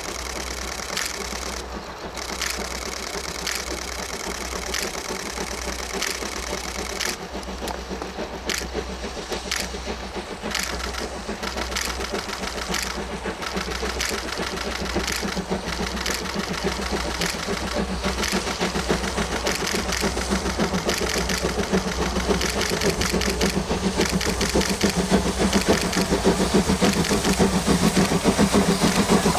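Japanese National Railways Class C58 steam locomotive (C58 239) working a train, its exhaust beating in a steady rhythm that grows louder toward the end.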